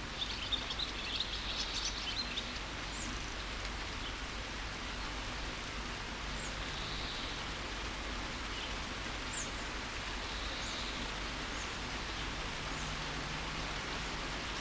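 Steady rain falling, with small birds chirping over it: a quick run of twittering in the first couple of seconds, then short high chirps now and then.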